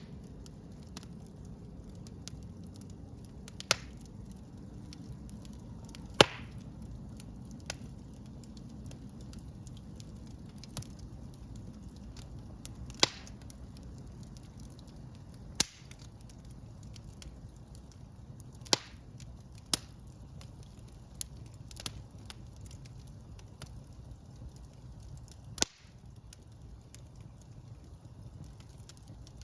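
Wood fire burning in a fireplace: a low steady rush of flames with sharp pops and cracks at irregular intervals, about ten clear ones, the loudest about six seconds in.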